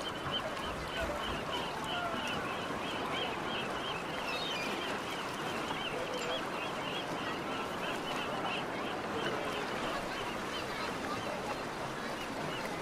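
Outdoor ambience of people talking indistinctly, with a bird chirping in quick repeated notes until about halfway through.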